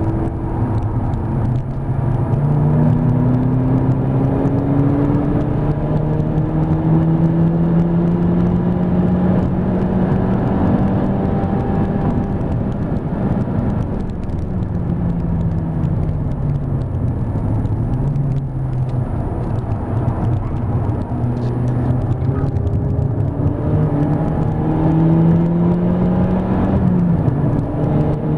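Mk5 VW Golf GTI's turbocharged 2.0-litre four-cylinder heard from inside the cabin under hard acceleration on track. The engine note climbs slowly through a long pull, falls and wavers around the middle as the driver comes off the throttle, then climbs again before a sharp drop near the end from an upshift, over steady tyre and road noise.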